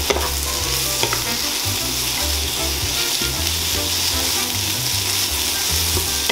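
Sliced onions and garlic sizzling in hot olive oil in a frying pan, stirred with a wooden spatula that clicks against the pan a few times.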